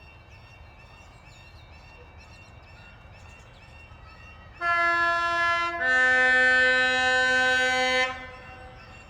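British Rail Class 43 HST power car sounding its two-tone horn: a higher note for about a second, then a lower note for about two seconds, over a low steady rumble.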